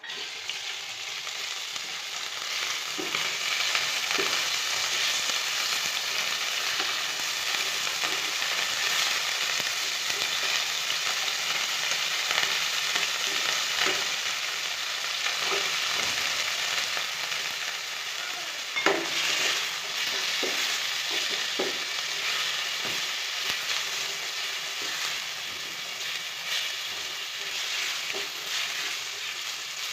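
Food frying in hot oil in a pan: a steady sizzle, with occasional clicks and scrapes from a utensil stirring it.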